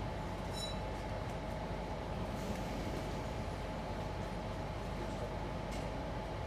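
Passenger train running at a steady pace, an even rumble with a steady electric hum that holds its pitch. A brief high-pitched tone sounds about half a second in.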